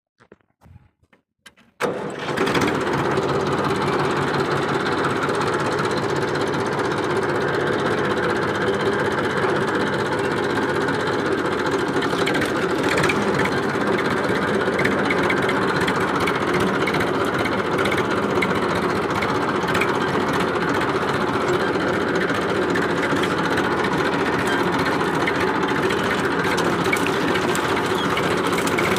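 Massey Ferguson tractor's diesel engine running steadily, coming in abruptly about two seconds in after near silence.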